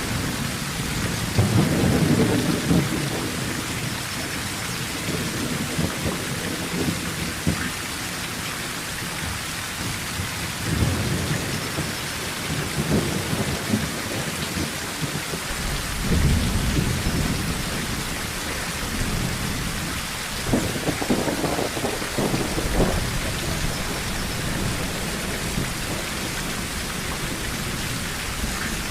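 Rain falling steadily on a tin roof, with low rolls of thunder rumbling several times, the strongest about two seconds in and again around sixteen seconds.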